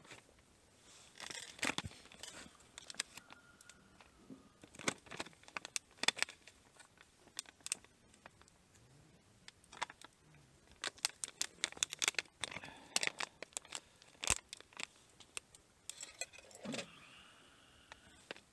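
Irregular clicks, clinks and rustling, like small objects being handled, in clusters with short gaps between them.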